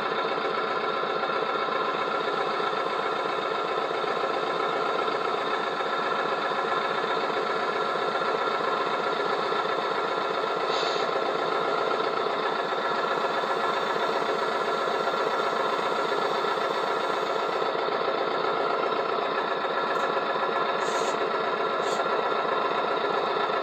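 Small geared electric motor of a motorised Bruder Scania Liebherr toy crane whirring steadily as it lowers the crane.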